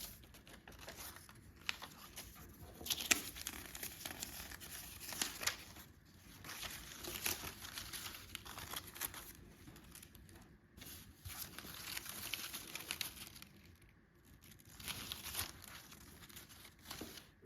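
Paper crinkling and rustling in irregular bursts, with small clicks, as strips of paper are handled and woven into a Christmas heart basket.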